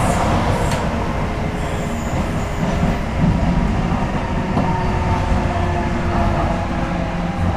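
Docklands Light Railway train (Bombardier B90 stock) heard from inside the car, running on the track: a steady rumble of wheels and running gear with a faint whining tone above it.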